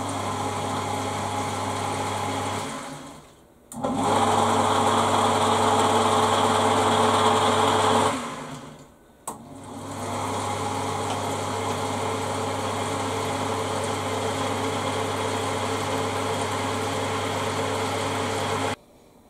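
Lathe's electric motor being test-run after rewiring: a steady electric hum that starts and stops three times, the middle run louder, then cuts off suddenly near the end.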